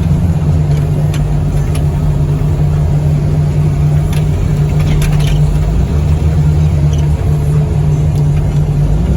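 A vehicle's engine running steadily as it is driven, a continuous low drone with a few faint clicks over it.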